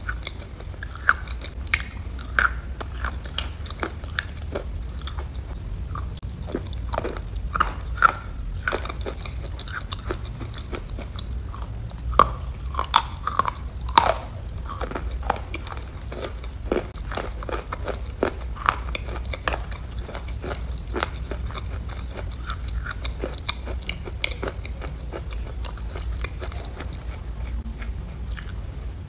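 Close-miked eating sounds of a person taking spoonfuls of a white food from a metal spoon: chewing and biting with many short sharp mouth clicks, thickest about a third to halfway through.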